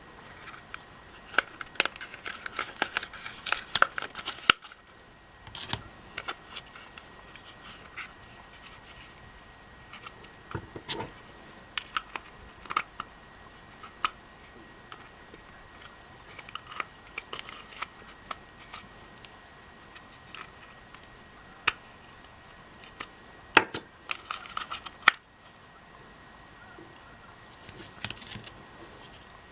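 Scattered clicks, taps and scrapes from the parts of a Makita cordless vacuum being handled while it is taken apart for a motor replacement. The clicks come in an irregular run, busiest in the first few seconds and again around three-quarters of the way through.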